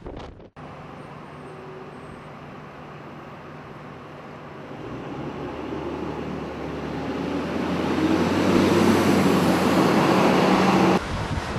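Road traffic with a heavy vehicle's engine, a bus or truck, running steadily and growing louder as it approaches, then cutting off suddenly near the end.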